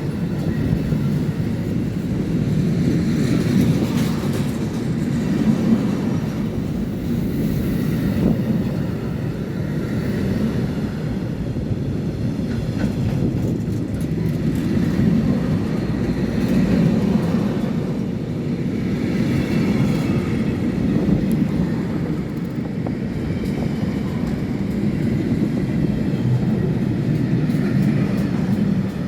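Train passing on the track: a steady low rumble with occasional faint clicks.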